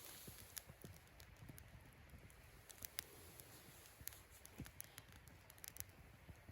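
Wood fire crackling faintly, with sparse, irregular sharp pops and snaps.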